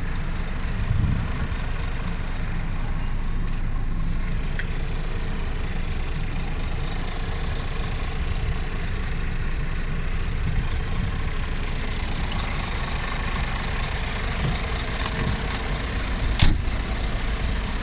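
Scania R480 truck's diesel engine idling steadily with a low rumble, with a few sharp clicks, the loudest near the end.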